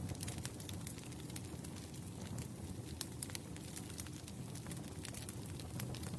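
Burning firewood in a campfire: frequent, irregular sharp crackles and pops over a steady low rumble of the flames.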